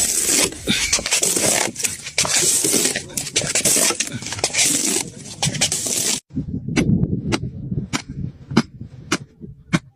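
A watermelon being cut with a knife: dense crackling that cuts off suddenly about six seconds in, then a string of sharp separate clicks and cracks, roughly two a second.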